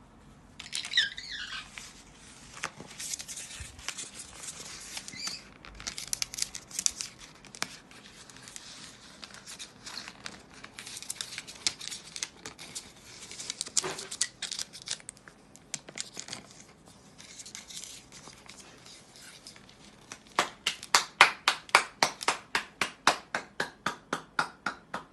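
Crinkling and tearing, like paper being shredded, with a short parrot call about a second in. It ends in a fast, even run of loud taps, about five a second, over the last four seconds.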